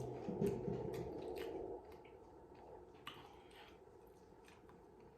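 Close-up wet chewing and mouth sounds of someone eating, louder for the first couple of seconds, then quieter with a few faint clicks.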